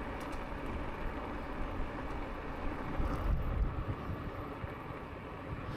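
Wind buffeting the microphone over the steady rumble of a moving e-bike's tyres on the path, with a stronger gust about three seconds in.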